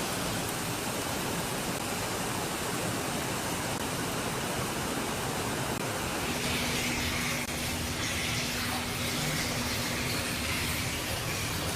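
Steady rushing water, with a low steady hum joining about six seconds in.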